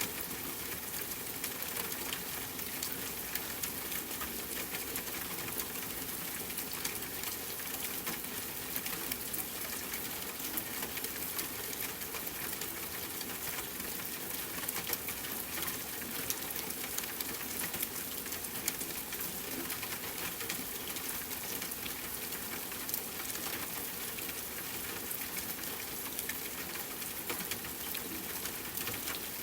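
Steady rain pattering on a tent mixed with a campfire crackling: an even hiss dotted with many small, sharp ticks.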